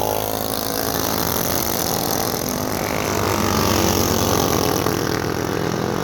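Several small minibike engines racing together, their pitch rising and falling as the riders throttle through the turns and straights.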